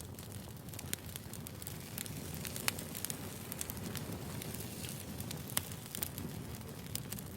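Wood fire burning: a steady low rumble of flames with frequent sharp crackles and snaps, two louder pops standing out.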